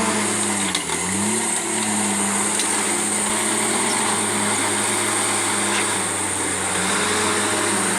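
Komatsu D51 crawler bulldozer's diesel engine running steadily under load, with a brief dip in its pitch about a second in and again near the end, over a constant hiss of machinery noise.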